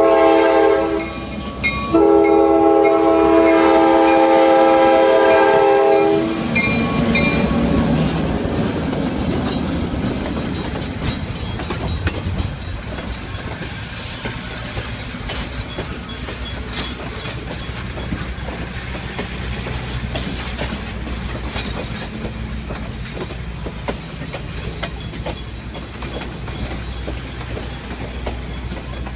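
A diesel locomotive's multi-tone air horn sounds a short blast, then a long blast of about four seconds. The passenger cars then roll past with a steady rumble and clicking wheels.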